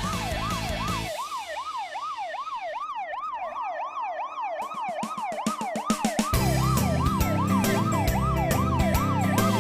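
Fire engine siren on an emergency call, wailing rapidly up and down, about two sweeps a second. A low rumble joins it about six seconds in.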